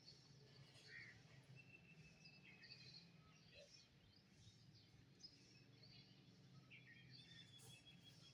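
Faint birdsong from several small birds: scattered short chirps and a few brief whistled notes, over a low steady hum.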